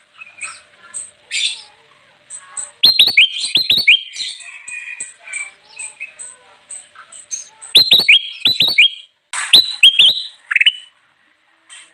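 Kutilang emas (a bulbul) singing: soft, high chips, broken by three loud runs of quick, sharp, falling notes, a few seconds apart.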